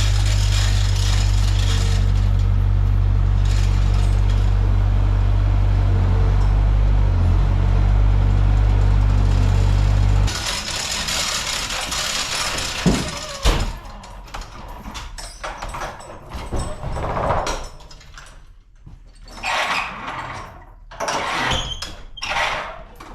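A vehicle engine running at a steady idle, shut off suddenly about ten seconds in; after it, a couple of sharp clicks and scattered knocks and handling noises.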